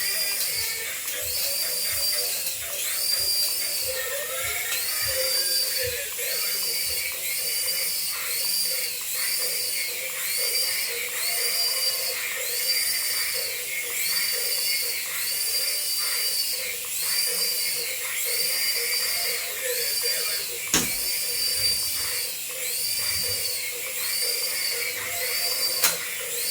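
A battery-powered toy's high-pitched electronic warble, rising and falling about three times every two seconds without a break, with two sharp clicks near the end.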